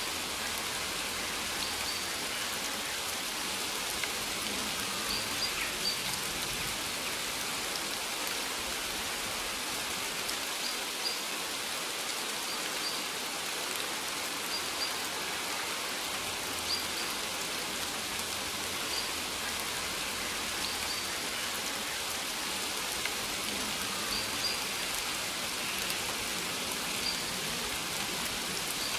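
Steady rain falling on the leaves of maize plants, with an occasional louder, closer drop. Faint short high chirps recur every second or two.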